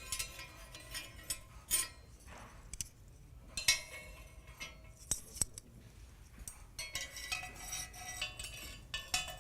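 Glass pieces clinking and knocking together in irregular short taps, some ringing briefly.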